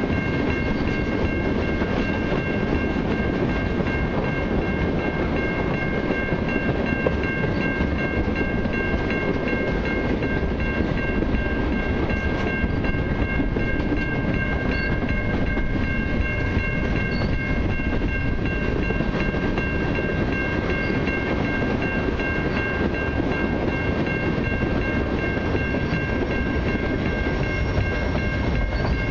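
Freight cars of a long mixed freight train rolling past at a level crossing: a steady rumble and clatter of steel wheels on the rails. Over it comes a steady high-pitched ringing from the crossing's warning bell.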